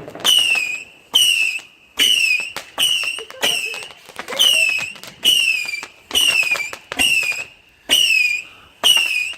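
Firework barrage cake firing whistling shots in rapid succession: about a dozen short whistles, one roughly every three-quarters of a second, each starting abruptly and dropping slightly in pitch as it fades.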